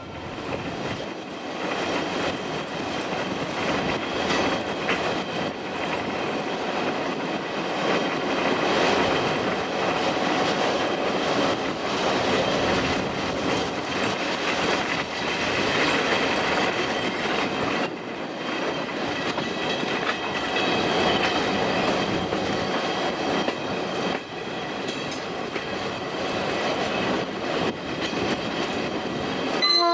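A passenger train hauled by a GM 'Kennedy' diesel locomotive, running steadily along the track, with the wheels clattering over the rail joints. The locomotive's horn starts right at the very end.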